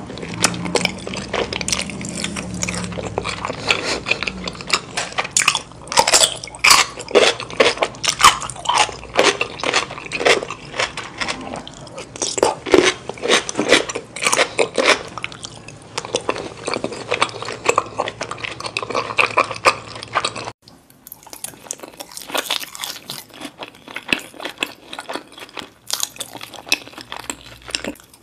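Close-miked crunching, biting and chewing of crispy fried, cheese-covered food, with dense irregular crunches. About 20 seconds in the sound cuts abruptly to another eating clip with the same kind of crunching over a quieter background.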